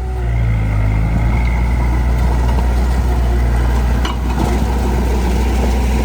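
Heavy diesel engine of earthmoving machinery running steadily, with a single sharp knock about four seconds in.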